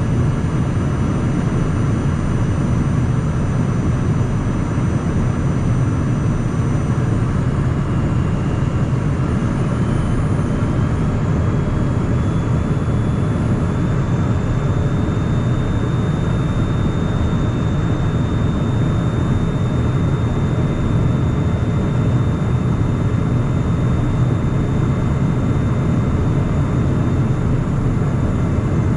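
Steady cockpit noise of a Cessna Citation Mustang light jet, mostly a deep rush of airflow and its two Pratt & Whitney PW615F turbofans. A faint high whine runs through it and steps up slightly in pitch about ten seconds in.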